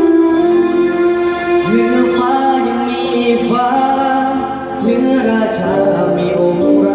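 A slow, sustained song: a singer's voice with long held, gliding notes over held keyboard or organ chords.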